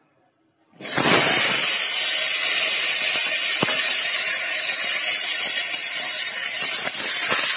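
Sliced potatoes hitting hot oil in a kadhai and frying: the sizzle starts suddenly about a second in and keeps up as a loud, steady hiss, with an occasional faint click.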